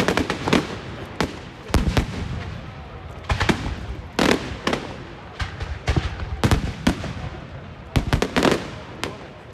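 Fireworks going off: a run of sharp bangs and cracks at irregular intervals, some coming in quick clusters of two or three.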